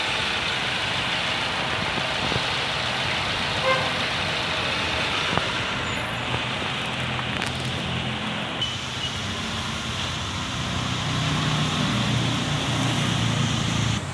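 A vehicle engine running with a low hum that grows stronger about ten seconds in, over a steady noisy background.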